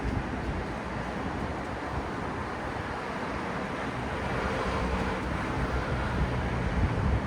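Steady city street traffic: vehicle engines and tyre noise with a low rumble, a brief faint tone in the middle, and swelling somewhat louder near the end.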